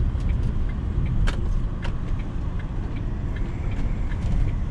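Van running, heard as a steady low rumble of engine and road noise, with scattered light clicks and rattles; the sharpest click comes about a second in.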